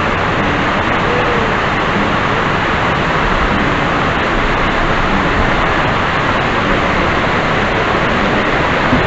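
Waterfall rushing, a loud, steady, even wash of falling water.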